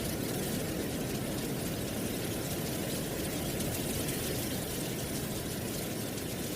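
Steady autumn wind blowing through trees, with dry leaves rustling in an even wash of noise.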